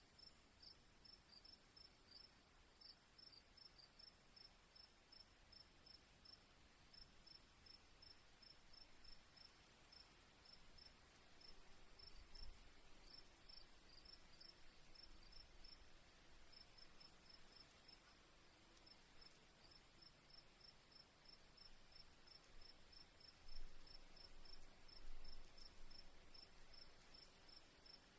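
Faint crickets chirping: a steady high trill with a run of short chirps, about four a second, broken by brief pauses. A few soft low thumps come about halfway through and near the end.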